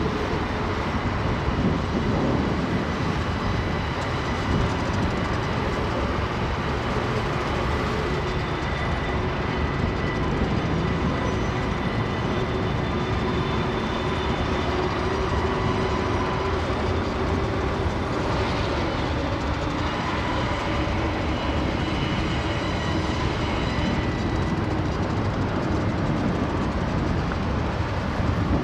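Freight train cars rolling past: a steady rumble and rattle of steel wheels on rail, with thin high whining tones riding over it.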